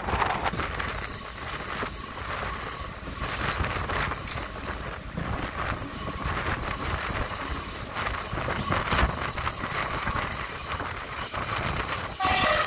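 Running noise of an ÖBB class 5047 diesel railcar under way, heard at its side window: wheels on the rails with a steady rushing noise. Near the end comes a brief high-pitched wheel squeal.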